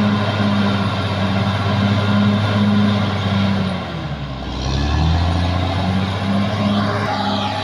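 Caterpillar D6R XL bulldozer's diesel engine running hard. About four seconds in, its pitch drops, then picks back up to its working speed.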